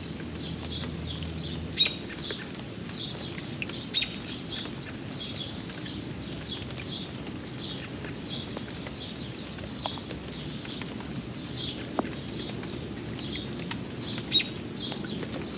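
Steady rain, with a bird chirping over and over, short high chirps a few times a second. Three sharp clicks stand out as the loudest sounds: one about two seconds in, one about four seconds in, and one near the end.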